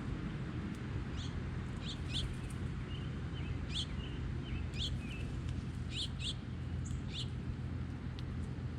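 Small songbirds giving short, sharp chirps, about one or two a second, with a few brief flat whistled notes in the middle, over a steady low rumble.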